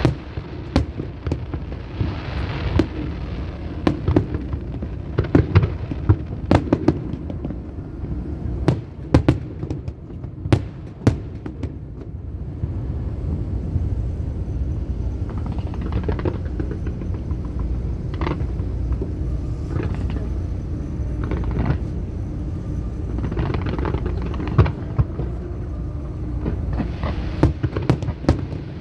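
Fireworks going off: many sharp bangs and crackles scattered throughout, over a steady low rumble.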